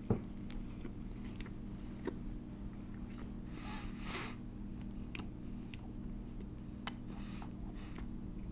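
A person biting into a pretzel-bun bacon cheeseburger and chewing it with the mouth closed: a sharper bite at the start, then soft chewing with small clicks. A steady low hum runs underneath.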